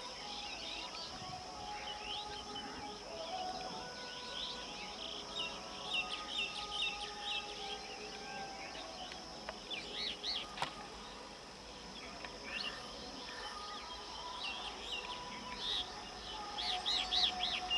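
Birds chirping in quick short calls over a steady high-pitched drone.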